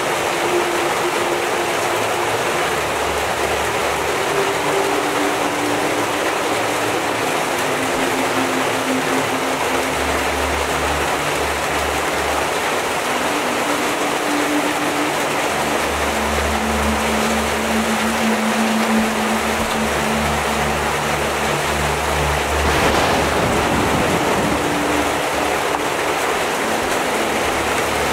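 Heavy rain falling steadily. Under it runs a low, soft musical drone whose held notes change every few seconds.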